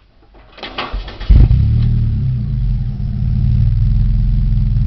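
Mitsubishi 4G93 1.8-litre inline-four engine cranked briefly by the starter, catching with a loud burst about a second and a half in, then settling into a steady idle.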